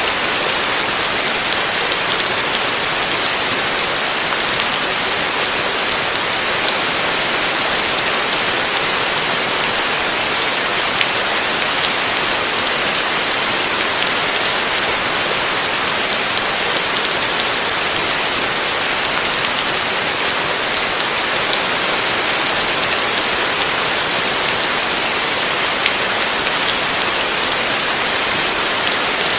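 Heavy rain falling steadily on a roof, a dense even hiss with scattered drop ticks.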